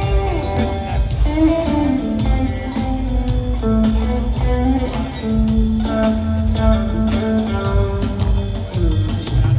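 Live rock trio playing an instrumental passage: guitar notes, some of them bent, over bass guitar and drums, heard through a phone recording.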